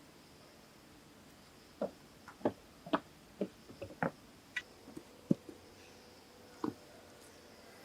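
A series of about a dozen sharp, irregular knocks and clicks, bunched between about two and seven seconds in, over a faint steady hiss.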